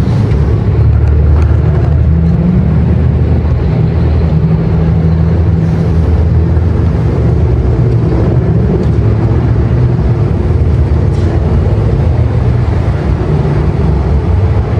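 A car engine running loudly and steadily, its low note drifting slightly in pitch.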